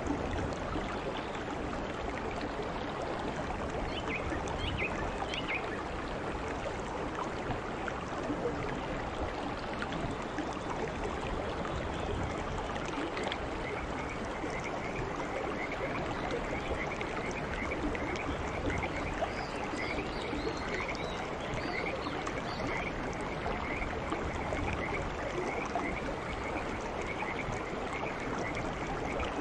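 Steady heavy rain falling on garden foliage and grass. From about halfway through, a rapid run of short, high repeated calls from a small creature sounds above the rain, with a few scattered chirps earlier.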